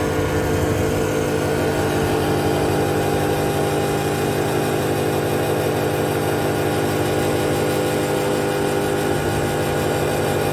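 KP 321 combination woodworking machine (thicknesser, circular saw and spindle moulder on one motor) running steadily with an even machine hum.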